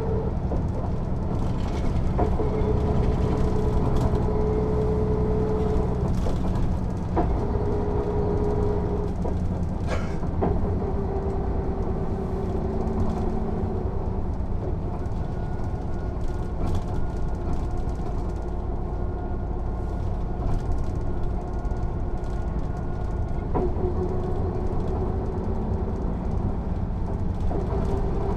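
Mercedes-Benz O 407 city bus under way, its six-cylinder diesel running with a heavy low rumble heard from inside the bus. A whine rises and falls in steps every few seconds as the bus pulls away, shifts and slows, with occasional rattles and clicks from the body.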